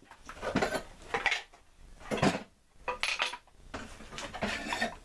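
Metal hammers clanking and clinking against each other and a welded steel hammer rack as they are handled, in several separate bursts.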